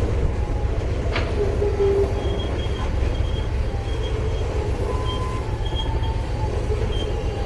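Freight train rolling past: a steady low rumble from the cars, with brief high-pitched wheel squeals scattered through and a single sharp clank about a second in.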